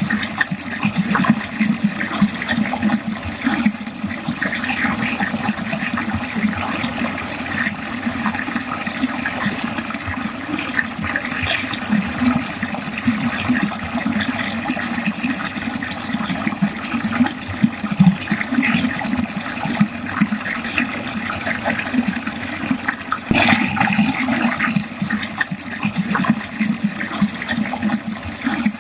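Water running steadily down a drain, a continuous flow.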